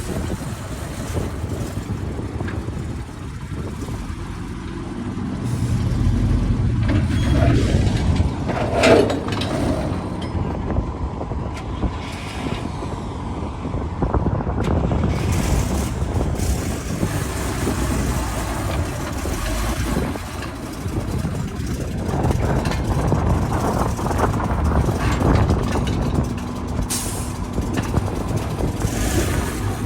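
Oilfield truck's engine running, louder from about six to nine seconds in, with short hisses of released air about nine seconds in and again near the end.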